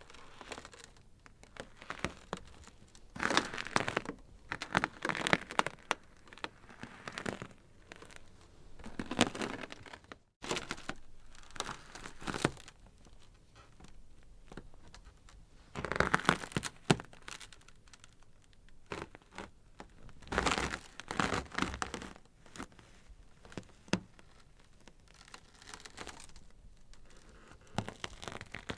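Ice crackling and popping in irregular bursts of dense sharp cracks, each cluster lasting a second or two with quieter crackle in between. The sound cuts out for a split second about ten seconds in.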